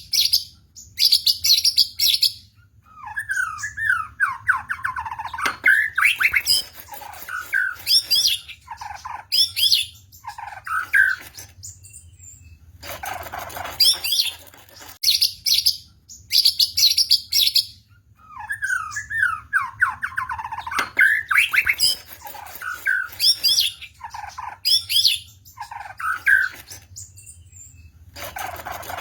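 White-rumped shama (murai batu) singing at full intensity: loud whistled phrases with sweeping notes and rapid chatter, separated by short pauses, over a steady low hum. The same sequence of phrases repeats about halfway through.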